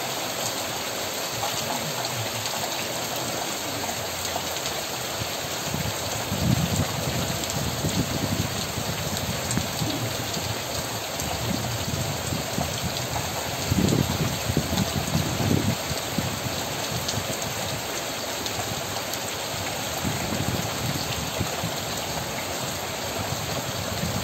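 Rain falling steadily on trees, leaves and yard surfaces, with a few brief louder low surges along the way.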